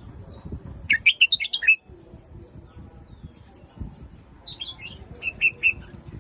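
Red-whiskered bulbul singing in the Phetchaburi song style: two short, quick warbled phrases, the first about a second in and the second near the end.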